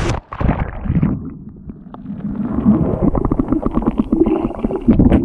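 Water sloshing and gurgling against a kayak close to the microphone, in quick, irregular splashes that build up near the end.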